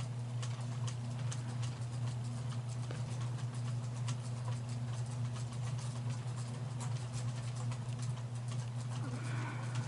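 A steady low hum with many irregular light clicks and ticks scattered over it.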